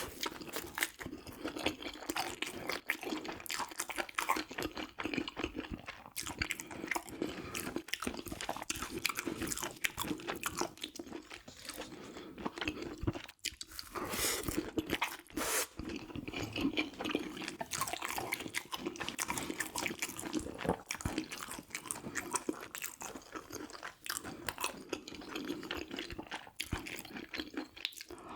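A person chewing and eating food close to the microphone, a continuous stream of wet mouth clicks, smacks and bites.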